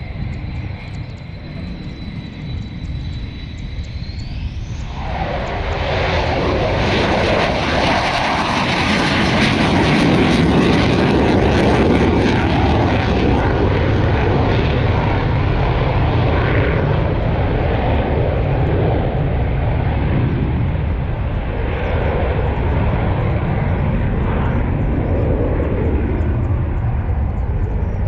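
Jet aircraft engine noise: a high whine rises about four seconds in, then gives way to a loud, steady jet rumble that is strongest a few seconds later and stays loud.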